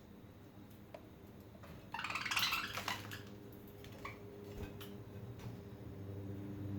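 Budgies moving about their cage: a short burst of scratchy rustling about two seconds in and a few small clicks and taps. A low rumble builds near the end.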